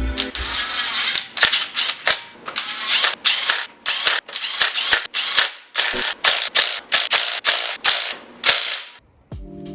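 A hand ratchet wrench worked in quick, short strokes, each swing giving a brief burst of rasping clicks, with a short pause near the end.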